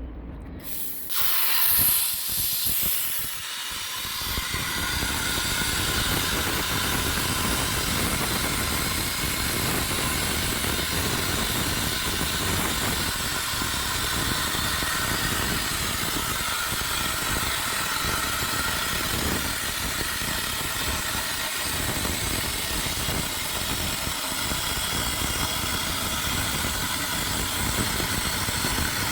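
CNC plasma cutter (LGK200A plasma source) firing its arc about a second in with a sudden loud hiss, then cutting metal with a steady hiss and a high, multi-toned whine.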